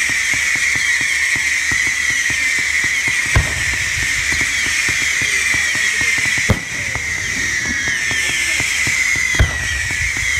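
Fireworks display: continuous fizzing crackle with three sharp bangs about three seconds apart.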